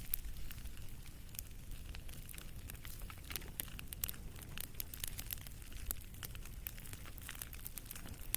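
Wood campfire crackling: a steady stream of sharp pops and snaps over a low rumble.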